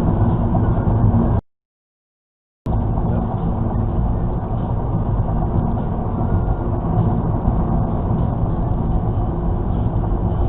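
Steady car engine and road noise from a moving vehicle. It cuts out to dead silence for about a second near the start, then runs on unchanged.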